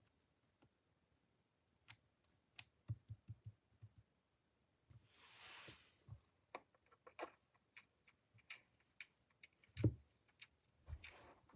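Plastic speed cube being handled and turned: scattered faint clicks and taps, a short hiss about five seconds in, and a louder knock near the end.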